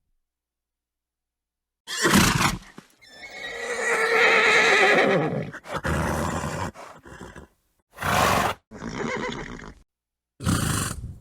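Horse neighing: a long whinny about three seconds in, together with several short bursts of snorting, each cut apart by dead-silent gaps.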